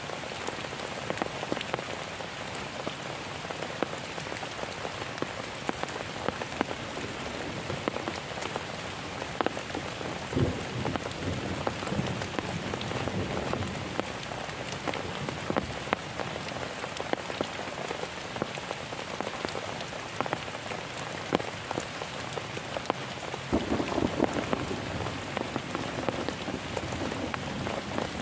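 Heavy rain falling steadily, with many individual drops ticking sharply on a surface. The rain sounds fuller and stronger near the end.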